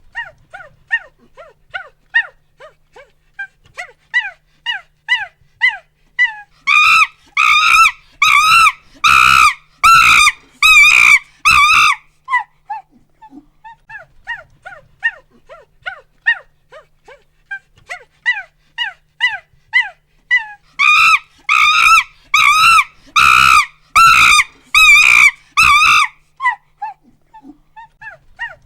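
Monkey hooting and screaming: quick series of short rising-and-falling hoots that build into a bout of loud, piercing screams, fall back to softer hoots, then build to a second screaming bout near the end.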